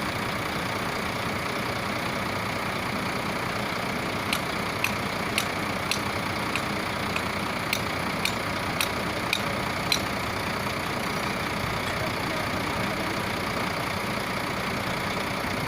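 Truck engine idling steadily. From about four seconds in to about ten seconds, a run of sharp clicks comes at about two a second, then stops.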